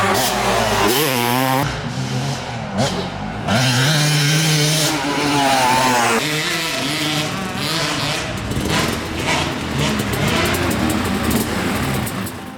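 Yamaha YZ250 two-stroke motocross bike engine revving and riding, its pitch rising and falling again and again as the throttle is worked.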